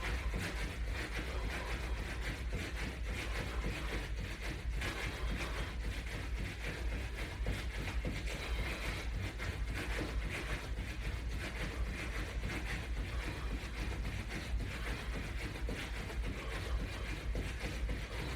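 Footfalls of a person jogging in place against resistance bands, over a steady low rumble of room noise.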